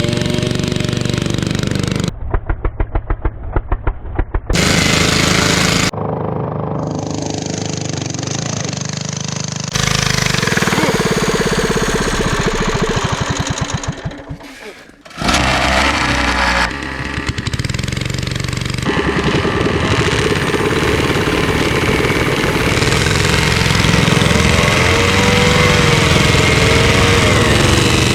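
Engines of a homemade three-engine off-road motorcycle running and revving under load, in a series of abruptly cut clips. There is a stretch of rapid, even putting about two seconds in, and a brief drop in level about halfway through.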